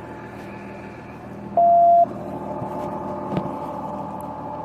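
A single electronic beep from a police radio: one steady, loud tone about half a second long, about a second and a half in. Underneath, an idling engine hums steadily.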